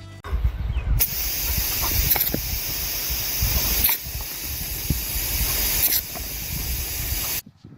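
A steady, loud hissing noise with a low rumble underneath, like spraying water or wind. It starts about a second in and cuts off suddenly near the end.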